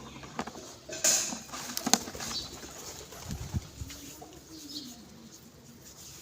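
Hungry birds at hand-feeding: a flurry of wing flaps and rustling about a second in, then a low, wavering call near the end.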